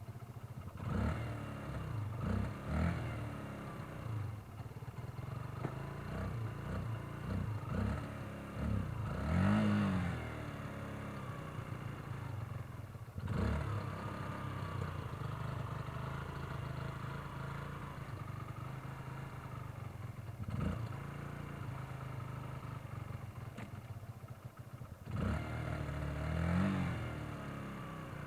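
Motorcycle engine idling with short blips of throttle while it is eased along on the clutch under load, as in riding it up into a van. It gives a cluster of quick revs early on, a bigger rev about ten seconds in and another near the end, with a single knock a little after the middle.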